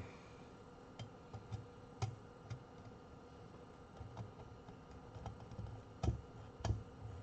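Irregular light clicks and taps of test leads and tools being handled at the amplifier's terminals, with two louder knocks near the end.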